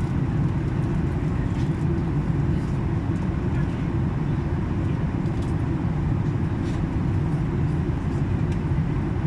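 Steady low rumble of an airliner's cabin in flight: engine and airflow noise, even throughout.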